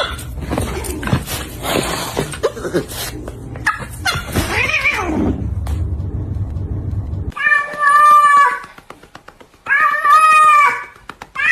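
Domestic cat yowling and caterwauling in protest. A rough, noisy wail over a low rumble comes first, with one rising-and-falling yowl about five seconds in. Then two loud, drawn-out meows follow, about eight and ten seconds in.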